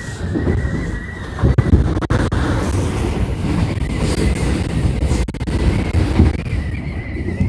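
Electric subway train running on the track: a loud low rumble of wheels on rail with a steady high-pitched whine over it and a few sharp clicks.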